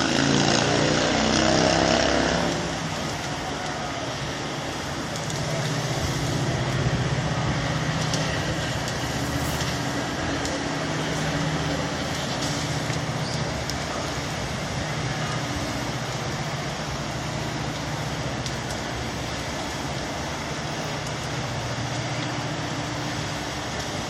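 Steady roar of a semi truck fire, with a low engine hum running underneath, louder for the first two seconds or so.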